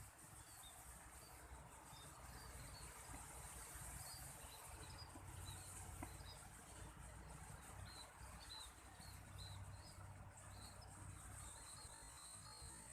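Faint, scattered high chirps of a flock of munias, over a steady high insect drone and a low wind rumble.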